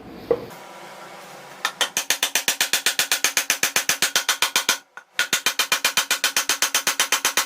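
A single knock, then rapid, evenly spaced clicks, about nine a second, in two runs broken by a brief silence near the middle.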